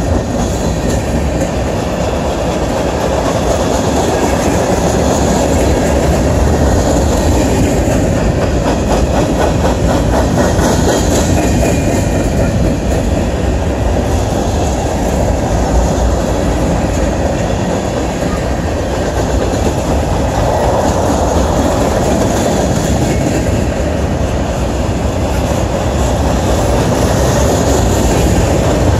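Freight train of covered hoppers and tank cars rolling past, a steady rumble with the steel wheels clacking on the rails.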